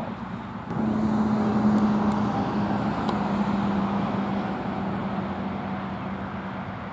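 A road vehicle passing: engine hum and tyre noise swell just under a second in and fade slowly away.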